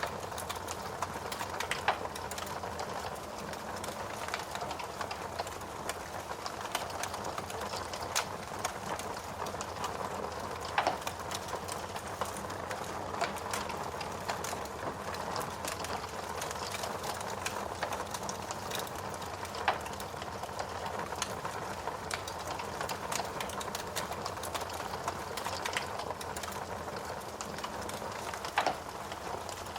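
Wood fire burning in a fireplace: logs crackling with a steady hiss, irregular small snaps and a few louder pops.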